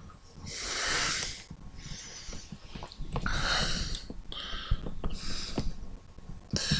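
A person breathing close to the microphone: about five audible breaths, alternating in and out.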